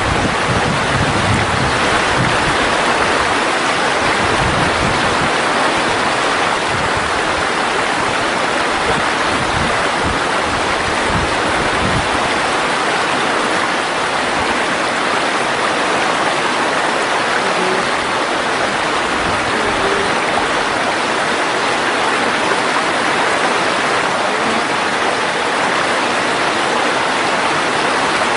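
Mountain valley stream rushing steadily over rocks, with irregular low rumbling during the first half.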